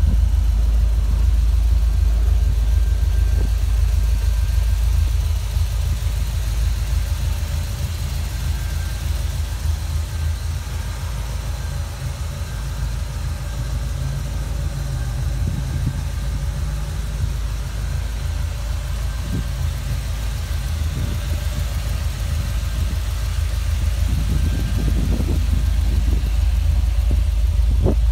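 1981 Chevrolet Corvette's fuel-injected V8 idling steadily, louder from behind the car near its exhaust and a little quieter from the front.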